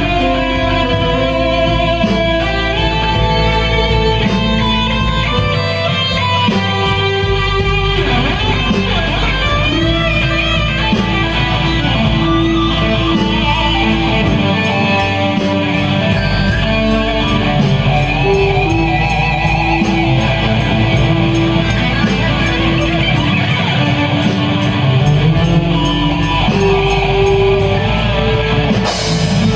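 Live blues-rock band playing an instrumental passage led by electric guitar, with held and bending notes over a steady rhythm section.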